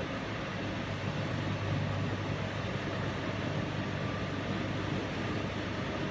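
Washing machine running: a steady low hum and rumble that swells slightly about a second in.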